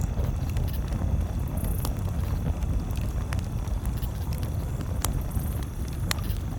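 Campfire crackling: a few scattered sharp pops over a steady low rumble.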